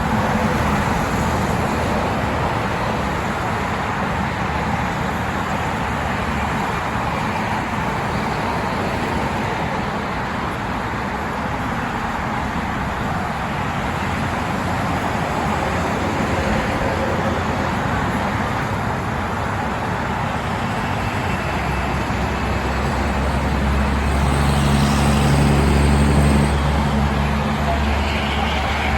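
Steady vehicle and road noise on a rainy day. About three-quarters of the way in, a heavier motor's low hum comes in, swells and then eases off.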